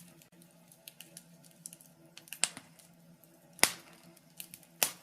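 Wood fire in a fireplace crackling: small ticks and snaps, with three sharp loud pops in the second half, over a faint low hum.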